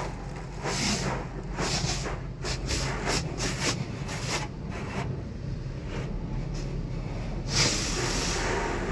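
Pressure-washer water jet spraying a car in short, irregular hissing bursts over a steady low hum, with the longest burst near the end.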